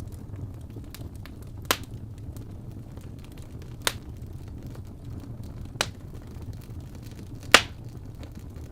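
Wood fire burning in a fireplace: a steady low rumble of flames with four sharp pops of crackling wood, about two seconds apart, the last one loudest near the end.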